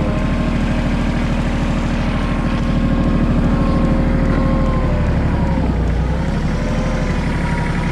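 Tractor engine running steadily while plowing snow with a front-end loader. The pitch sags briefly about six seconds in, then recovers.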